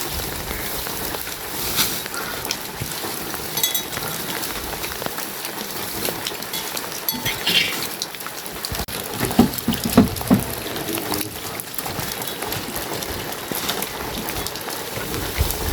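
Steady rain falling, an even hiss of drops, with a few brief louder knocks about nine to ten seconds in.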